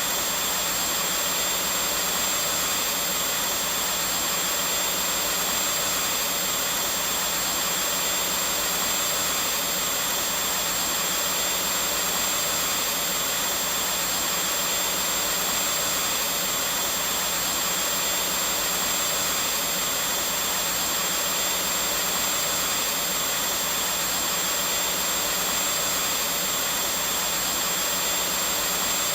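Vacuum cleaner running steadily, a continuous even rush of air with a thin high whine over it.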